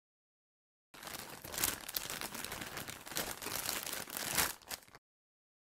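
Foil-lined wrapper of a 2021 Donruss Racing trading card pack being torn open and crinkled by hand. It is a dense, crackling rustle that starts about a second in and stops abruptly about four seconds later.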